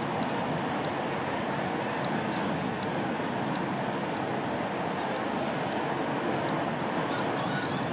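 Steady rushing of wind and water by a ship channel, with a faint steady hum underneath and a few faint high ticks.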